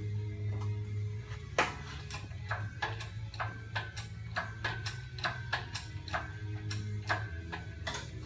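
Irregular sharp clicks and taps, a few a second, some with a short ringing note, over a steady low hum.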